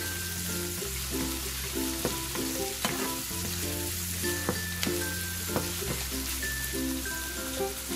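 Shrimp, onion, garlic and fishballs sizzling in hot oil in a nonstick frying pan while a wooden spatula stirs them, with scattered clicks and knocks of the spatula on the pan. Light background music plays underneath.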